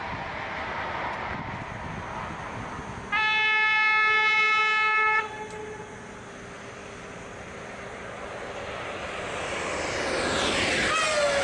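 Train horn sounding one steady blast of about two seconds over the rushing noise of a moving train; the rushing grows louder near the end.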